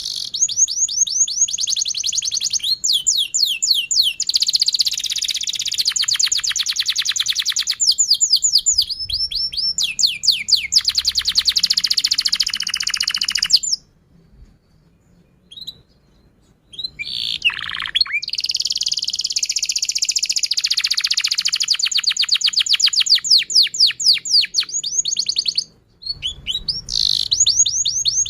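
Domestic canary singing a long song of fast high trills, each phrase a rapid run of repeated notes. The song breaks off for about three seconds midway, then resumes.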